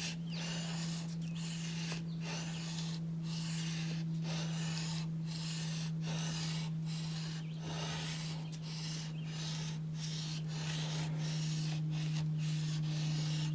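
Steel gouge blade rubbed back and forth on wet sandpaper to hone and polish its edge: a steady scraping in strokes about one a second. A steady low hum runs underneath.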